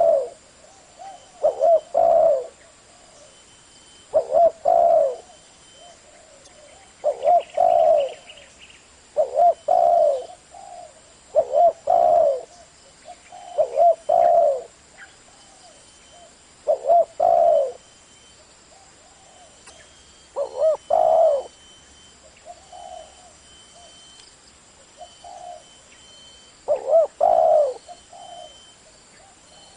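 Spotted dove cooing: short, repeated coo phrases every two to three seconds, with a longer pause before the last one.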